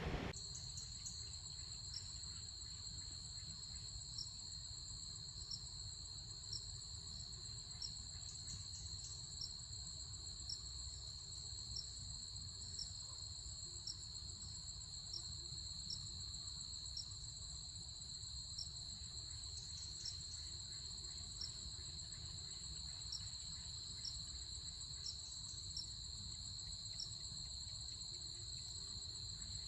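Crickets chirring steadily in two continuous high-pitched trills, with a fainter insect ticking about once a second between them, over a low background rumble.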